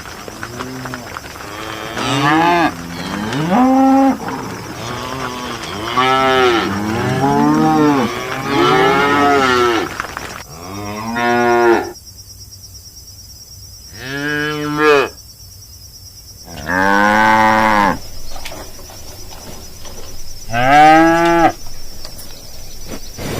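Cows mooing again and again: overlapping calls of different pitches for the first ten seconds or so, then single long moos a few seconds apart.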